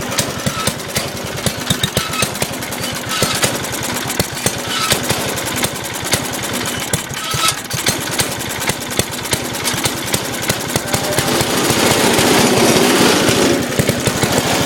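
Small go-kart engine running with a rapid, chattering firing beat. It has no chain on, so it runs free without load. It rises louder for a couple of seconds near the end, then drops back.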